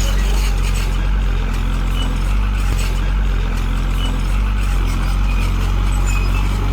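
Heavy diesel engine of earthmoving machinery running steadily at a constant speed, a loud, even low drone.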